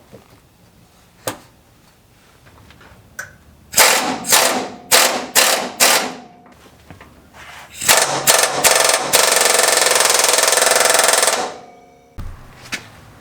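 Impact wrench hammering in a string of short bursts, then a few more, then one steady run of about two seconds, as it works the cab mount bolts loose to take the body lift out.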